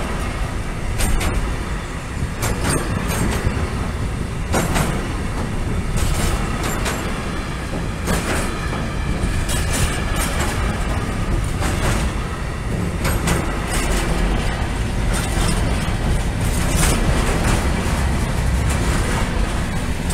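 Container flat wagons of an intermodal freight train rolling steadily past at close range: a continuous low rumble of steel wheels on rail, broken by irregular sharp clacks from the passing wheelsets.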